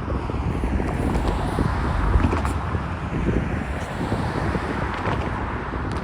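Freight cars of a manifest train rolling past: a steady rumble of steel wheels on rail with a few faint clicks, and wind on the microphone.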